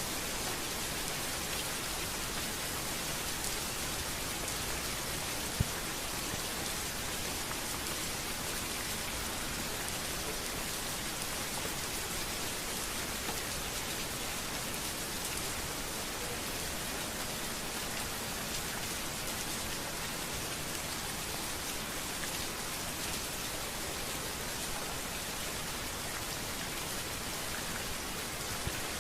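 Steady rain falling on a street, an even hiss of drops, with a single sharp tick about six seconds in.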